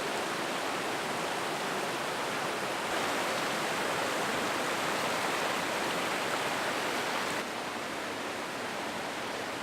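Mountain river water rushing over rocks in a steady, even roar. About seven seconds in it becomes a little quieter and duller.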